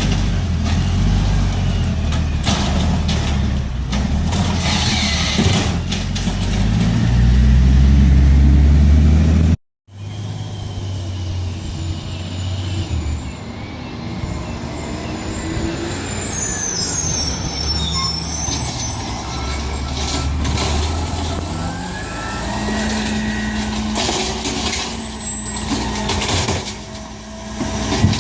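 Garbage truck engines running in two separate clips, with a short cut between them about ten seconds in. In the first, the engine revs up and gets louder. In the second, the engine runs steadily, with brief high squeals that sound like air brakes.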